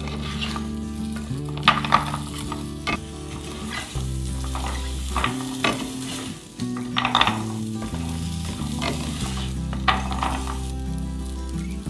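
Pelmeni sizzling as they fry in a nonstick frying pan, stirred and turned with a plastic slotted spatula that scrapes across the pan in about eight short strokes.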